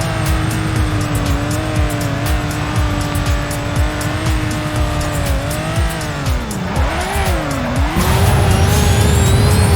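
A car engine running at a steady pitch, then its note falling and rising sharply a couple of times about six to eight seconds in, with music and a steady beat underneath.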